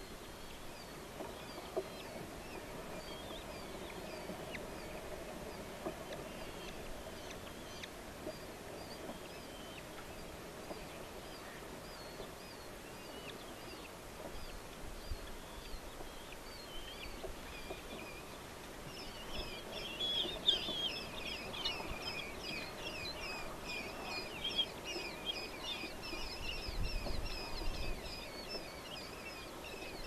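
Birds calling: a steady run of short, high chirps, joined about twenty seconds in by a dense, rapid chattering that lasts about ten seconds and is the loudest part.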